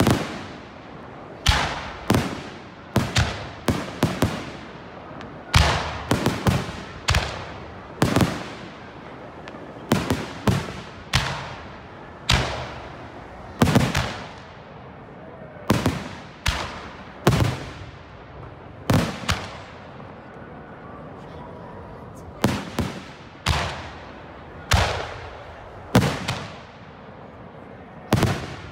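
Aerial firework shells bursting close by in a fast, irregular run of loud bangs, often two or three in quick succession, each dying away over about a second. A short lull comes in the middle before the bangs resume.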